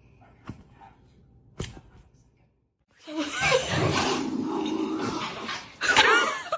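Two faint knocks, then after a short break a dog vocalising loudly: a rough, noisy growling sound with rising and falling yelps, strongest near the end.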